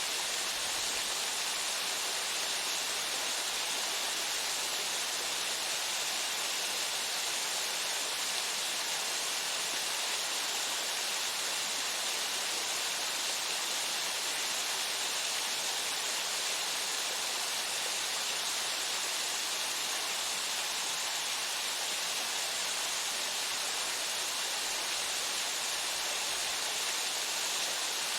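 Waterfall pouring steadily: an even, unbroken rush of falling water, strongest in the high hiss, with no breaks or changes.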